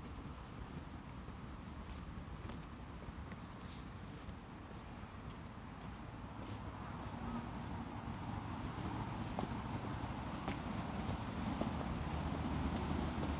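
Chorus of autumn insects chirping steadily in continuous high bands, with a low rumble that grows louder over the second half.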